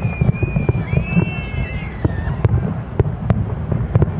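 Fireworks exploding in quick, irregular pops and bangs over a low rumble of wind on the microphone, with a high wavering whistle for about the first two seconds.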